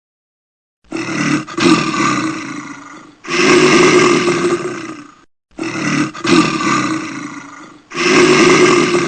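A large animal roaring: four long roars of about two seconds each, the same pair of roars heard twice.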